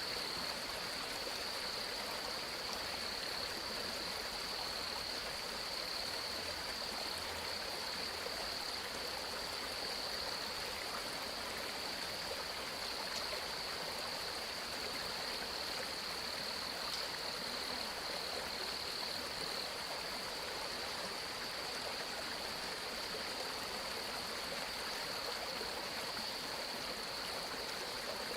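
Flowing water, like a stream, running steadily with an even rushing sound. A steady high-pitched drone sits over it.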